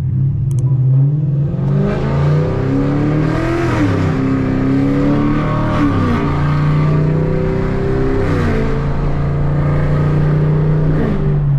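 Straight-piped Chevrolet Camaro V8 with headers accelerating hard through the gears, heard through open windows. The exhaust note climbs in pitch, then falls suddenly at each of three upshifts, roughly every two to three seconds, before holding steady near the end.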